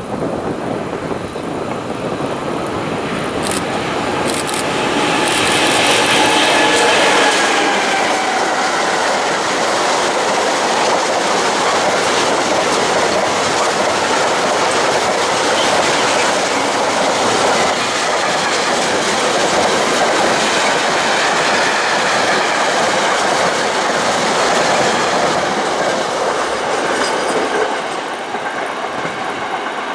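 An SNCF BB 27000-class electric locomotive hauling a mixed freight train passes close by, with a whine that falls in pitch about five seconds in. The wagons then roll past with a steady clickety-clack of wheels on rail joints, which drops away near the end.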